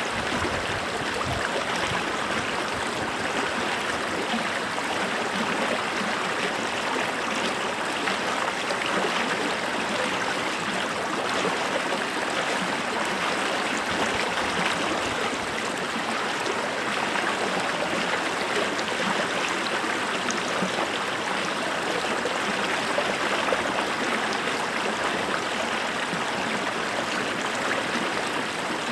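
Creek water running steadily over stones, a constant babbling rush with small gurgles and splashes.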